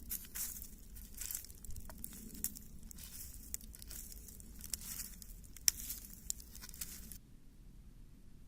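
Wood campfire crackling, with a steady hiss and frequent sharp, irregular pops and snaps, ending abruptly about seven seconds in, leaving only a faint low rumble.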